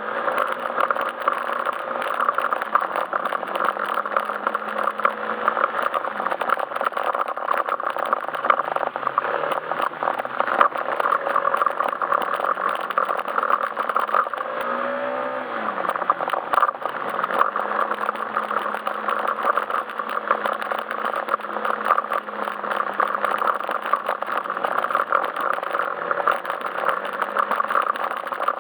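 Yamaha Majesty S scooter's engine running under way. The engine note eases off and drops about six seconds in, then briefly rises and falls again about halfway through, over a steady rush of road and wind noise.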